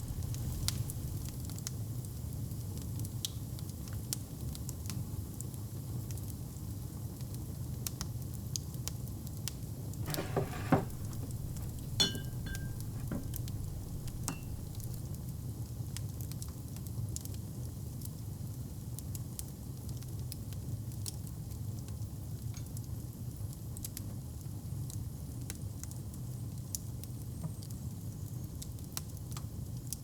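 Wood fire crackling in a fireplace: a steady low rumble with scattered small pops and snaps. Two louder knocks come about ten and twelve seconds in, the second with a short ringing note.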